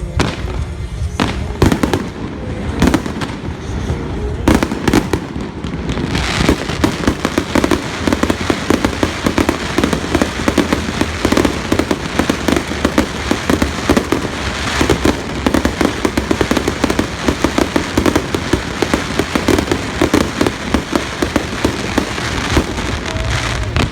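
Aerial fireworks going off: a few separate bangs at first, then from about six seconds in a dense, rapid barrage of crackling bursts.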